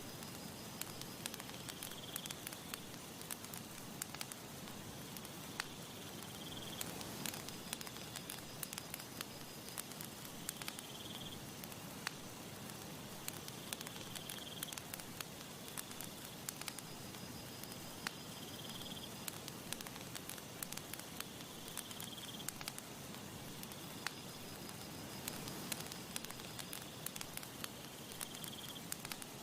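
Campfire crackling steadily, with frequent sharp pops and snaps from the burning wood. Faint high-pitched calls repeat every few seconds behind it.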